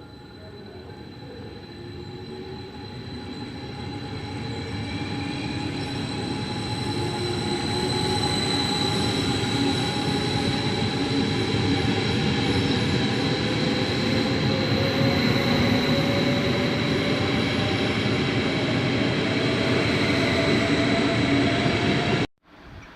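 A train running close by, growing louder over the first several seconds and then holding steady. Over it are a steady high-pitched squeal and a slowly rising whine. It cuts off abruptly near the end.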